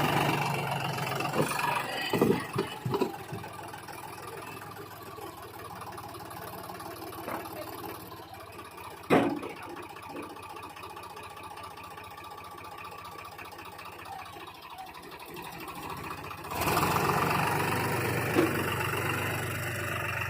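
Three-cylinder diesel engine of a Same Deutz-Fahr Agromaxx 4050 E tractor running steadily. It drops in level after the first couple of seconds and grows louder again for the last few seconds. A few knocks come early, and one sharp knock about halfway through.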